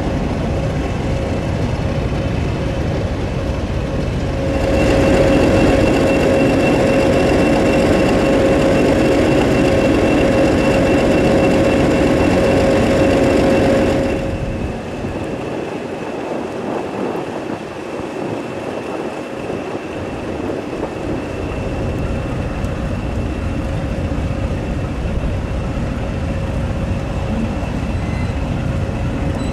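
Heritage British Rail diesel locomotive running, with steady tones over its engine noise. The engine gets louder about four seconds in, holds for about ten seconds, then drops back to a quieter steady run.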